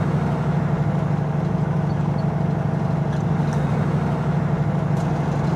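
Semi truck's diesel engine running steadily under way, heard from inside the cab: a constant low drone that holds its pitch.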